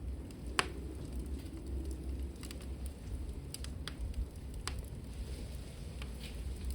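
Wood fire burning in a fireplace: a steady low rumble of flames with scattered sharp crackles and pops, the loudest about half a second in.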